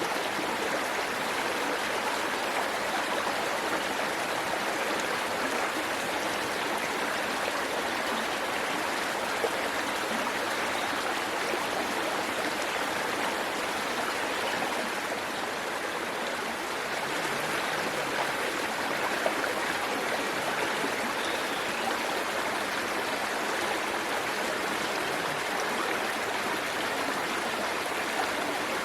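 Waterfall and stream water rushing and splashing steadily.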